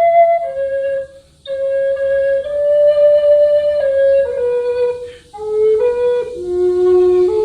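Flute playing a slow melody of long held notes that step up and down, with two short pauses, and ending on its lowest note.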